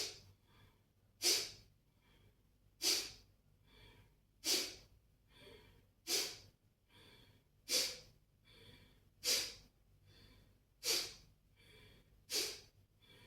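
Kapalabhati breathing: a series of sharp, forceful exhalations through the nose, about one every second and a half, each driven by a pump of the abdomen, with faint passive inhales between them.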